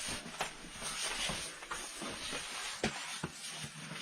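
Footsteps and scuffing on rock as people move into a cave entrance, with a few scattered short knocks over a steady hiss.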